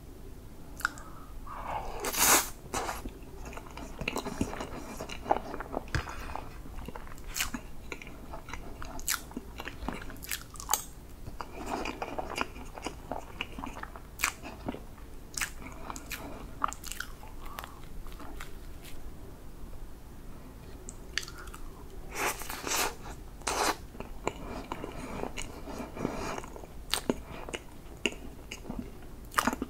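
Close-miked mouth sounds of eating soft whipped-cream chocolate cake: wet chewing with sticky lip and tongue smacks and many sharp clicks, louder about two seconds in and again a little past twenty seconds in.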